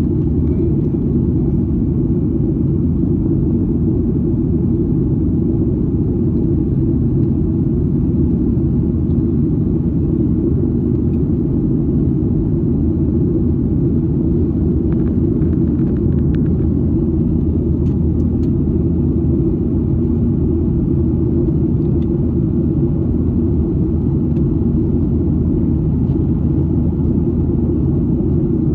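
Steady low rumble of an airliner in flight, heard from inside the cabin: engine and airflow noise, constant and unchanging.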